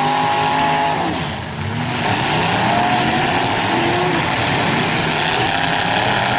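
Several demolition derby car engines revving at once, their pitches rising and falling as the cars drive and ram on the dirt, with a brief drop in loudness about a second and a half in.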